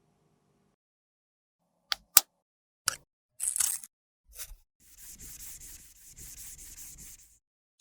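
Sharp clicks and taps of cosmetic containers or tools being handled, the loudest about two seconds in. These are followed by a short scrape, then a quick run of rhythmic scraping or rubbing, as when makeup is scraped or mixed, which stops shortly before the end.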